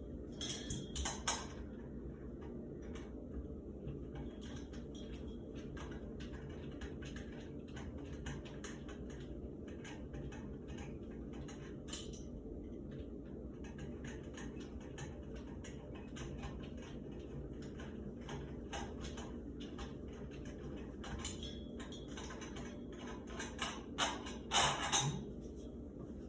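Screwdriver working a screw out of a shower handle: scattered faint metallic clicks and scrapes over a steady low hum, with louder clinks just after the start and again near the end.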